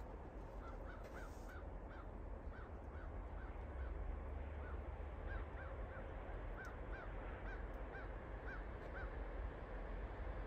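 A bird giving a long series of short, repeated calls, two or three a second in runs with brief pauses, over a steady low rumble.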